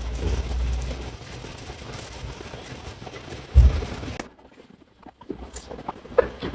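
Steady heavy rain falling, with low rumbling at first and a loud thud about three and a half seconds in. The sound drops out almost completely for about a second just past the middle, then the rain returns with a few scattered ticks.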